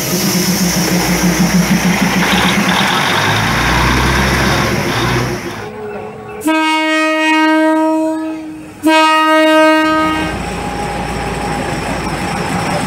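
Diesel railcar rumbling past at very close range, then its horn sounding a long blast about halfway through and a second, shorter blast right after; the engine and wheels run on steadily after the horn stops.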